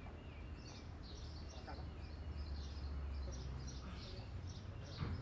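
Outdoor street ambience: small birds chirping in quick, repeated short calls over a steady low rumble. A short knock sounds about five seconds in.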